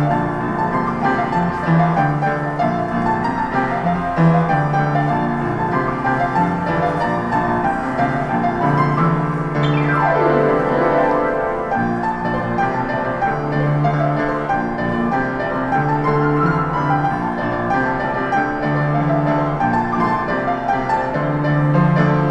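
Public street piano being played: dense chords and melody over a repeating bass line, without pause.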